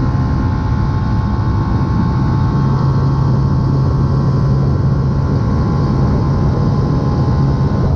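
Yamaha YZF-R125's 125 cc single-cylinder four-stroke engine, breathing through a full aftermarket exhaust, running at a steady speed under heavy wind rush on the move.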